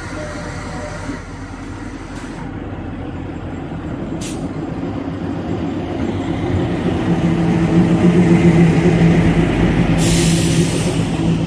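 Kalka–Shimla narrow-gauge rail motor car running, its engine drone and rail rumble growing louder partway through. A short hiss comes about ten seconds in.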